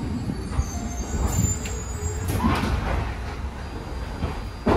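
Interior running noise of an old FE220 narrow-gauge electric train car in motion: a steady low rumble from the wheels and running gear, with a faint high wheel squeal in the first second or so. A few short knocks from the wheels in the middle, and a sharper knock near the end.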